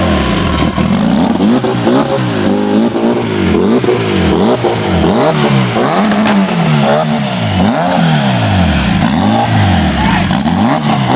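Turbocharged Honda Civic EG hatchback's B-series four-cylinder engine being blipped over and over as the car pulls away slowly. The revs rise and fall about once a second.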